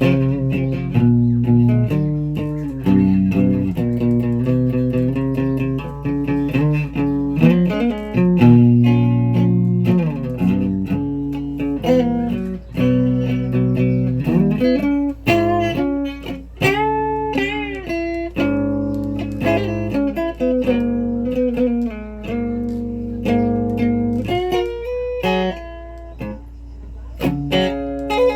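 Guitar being played: a run of plucked single notes and chords, some notes bent up and down, over a steady low hum.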